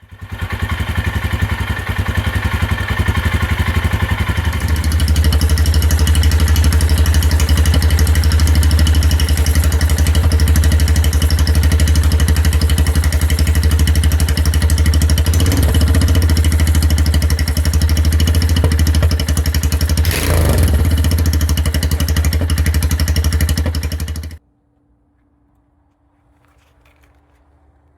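Royal Enfield Himalayan motorcycle engine running steadily through an aftermarket performance exhaust, with a deep, loud exhaust note. It cuts off suddenly near the end.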